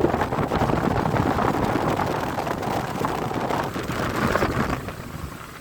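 Motorboat under way: a rough, steady rush of the motor and water, with wind buffeting the microphone. It drops in level near the end.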